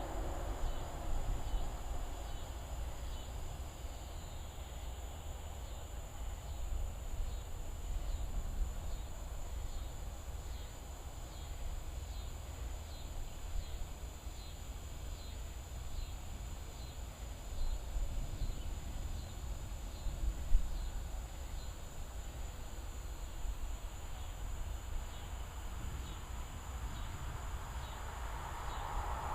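Insects chirping in an even, steady rhythm over a constant low rumble, with one brief sharp knock about two-thirds of the way through.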